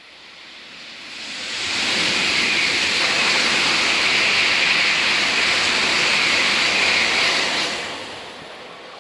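Tokaido Shinkansen bullet train passing through at high speed: a rushing roar that swells over about two seconds, holds steady for about five, and then fades away.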